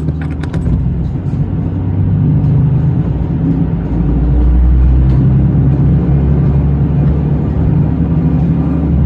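JR Shikoku 2000 series diesel railcar running, a steady low engine and wheel rumble that grows louder about two seconds in and again about four seconds in.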